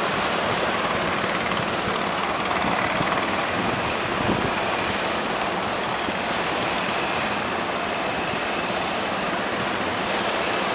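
Big ocean waves breaking: a steady, unbroken rush of surf.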